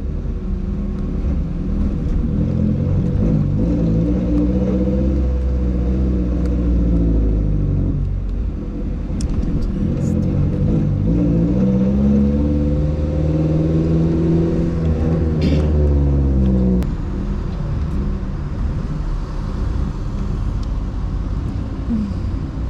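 Car engine and road rumble heard from inside the moving vehicle, the engine note rising and falling several times as it speeds up and changes gear, then dropping to a lower, steadier running about seventeen seconds in as the car slows.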